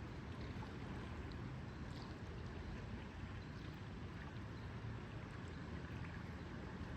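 Lakeside ambience: lake water moving gently, a steady, even wash of sound that is fullest at the low end.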